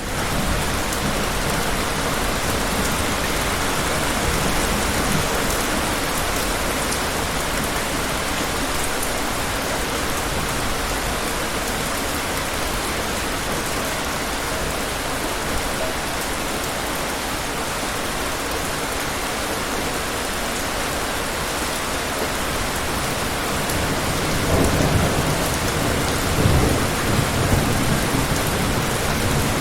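Steady heavy rain falling, with low rumbles of distant thunder rolling in near the end.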